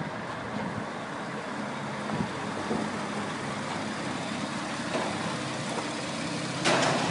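Sports car engine idling steadily, with a brief louder noise near the end.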